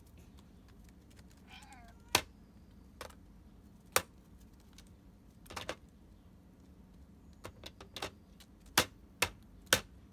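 A hooded crow's beak pecking and knocking on a dog activity puzzle box: sharp single knocks at irregular intervals, with a quick cluster near the end. A short wavering call sounds once, just before the first knock.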